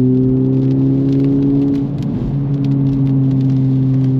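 Honda Civic Type R's 2.0-litre turbocharged four-cylinder engine running under steady load while driving on wet road, its pitch creeping up, with a short break about two seconds in before it settles again. Tyre and road noise hiss underneath.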